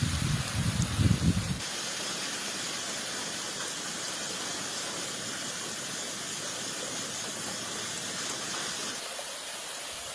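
Irregular low rumbling thuds for about the first second and a half, then a steady, even hiss that eases a little near the end.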